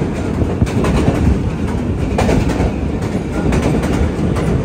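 Pakistan Railways passenger train running, heard from on board: a loud, steady rumble of wheels on the rails, with a few clacks over rail joints.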